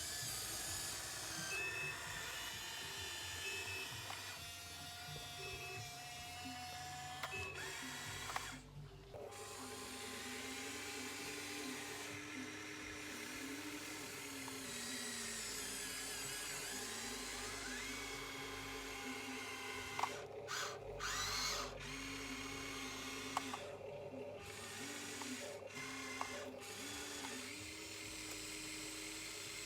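Small electric motors of a remote-control excavator whining as it works, their pitch stepping up and down as the arm and bucket move, with a few sharp clicks and knocks.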